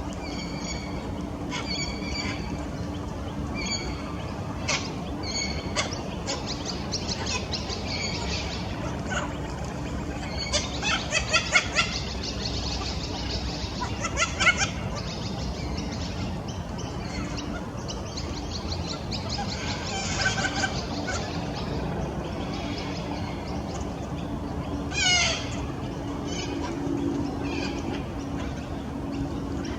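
Sulphur-crested cockatoos calling: short repeated calls at first, then louder quick runs of calls about 11 and 14 seconds in, and a single sweeping call about 25 seconds in, over a steady low hum.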